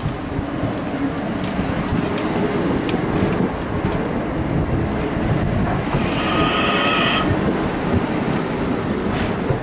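Irish Rail 8500 Class DART electric multiple unit passing close by over a level crossing as it pulls away from the station: a steady rumble of wheels on rail with scattered clicks over the rail joints, and a high wheel squeal lasting about a second around two-thirds of the way through.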